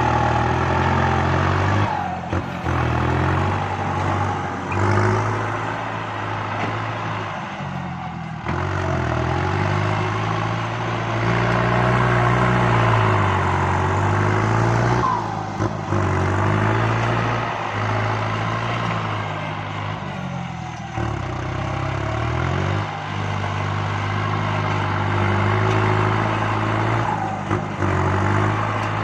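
Kubota MU5702 tractor's four-cylinder diesel engine running under load while dozing soil. Its pitch rises and falls as it works, with a brief dip about every six seconds.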